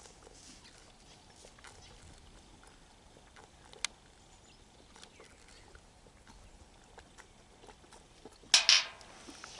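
Faint scattered clicks and a sharp click about four seconds in, then near the end a short, loud, breathy snort from a sheep, in two quick parts.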